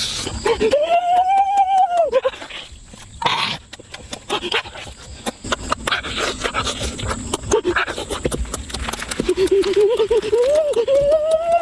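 A dog whining in two drawn-out cries that rise and then fall, the second longer and wavering, with scattered clicks throughout.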